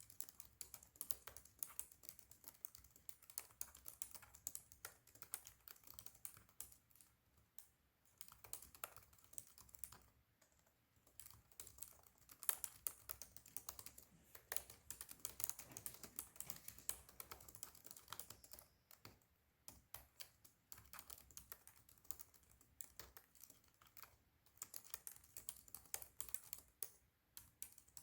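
Fast typing on a Razer laptop's keyboard: a faint, dense patter of quick key clicks, with two short breaks, about a third and two thirds of the way through.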